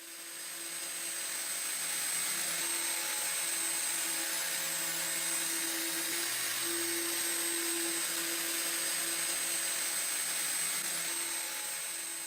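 A power tool running steadily with a strong hiss and a constant motor hum.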